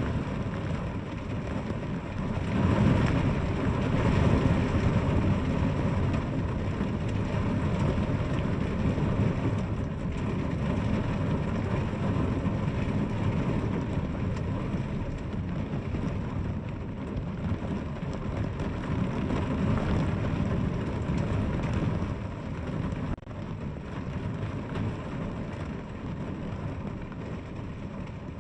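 Heavy rain falling in a steady hiss, with a deeper rumble that swells about three seconds in and then eases.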